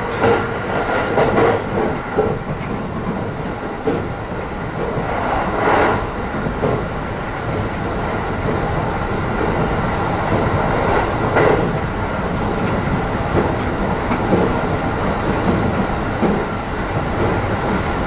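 JR East E531 series electric train heard from inside the car while running between stations: a steady rumble of wheels and running gear on the track, with a few louder surges about six and eleven seconds in.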